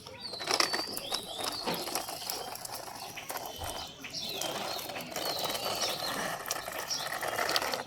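Small birds chirping repeatedly, over a scatter of sharp clicks and rattles, with a rough rustling noise in the second half.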